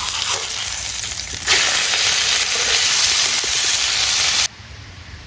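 Sirloin steak sizzling hard in a hot frying pan, a steady loud hiss that gets louder about a second and a half in and cuts off suddenly near the end.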